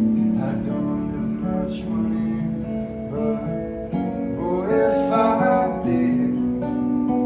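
Music with a guitar playing chords, its notes held and changing every second or so.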